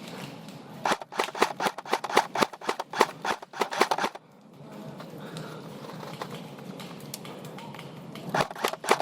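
Airsoft gun firing a quick string of sharp snapping shots, about five a second, for roughly three seconds before stopping abruptly. Another string starts near the end.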